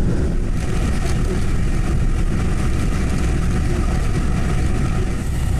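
Inside the carriage of a running Taiwan Railway local train: a steady, loud low rumble of the train in motion.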